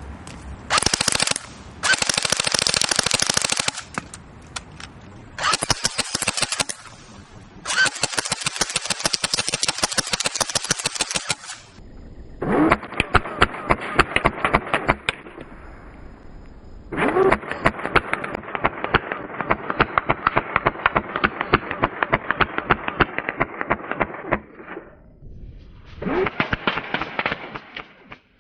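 Airsoft G36C rifle firing on full automatic in about seven bursts of rapid shots, from about a second to several seconds long, with short pauses between them.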